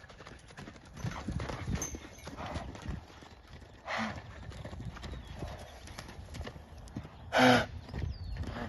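Horses' hooves clip-clopping, with two short loud bursts of noise, one about four seconds in and a louder one near the end.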